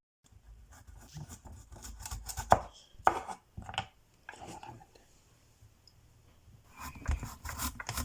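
Knife chopping vegetables on a cutting board in irregular strokes, with a quieter pause midway and quicker chopping again near the end.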